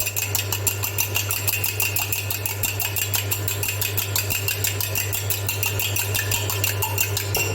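An egg being beaten by hand in a bowl: a fast, even run of strokes, several a second, that keeps going and stops near the end.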